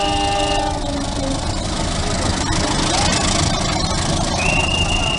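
Train horn sounding a multi-tone chord that cuts off about a second in, followed by the steady noise of a train running past. A single high squeal starts near the end.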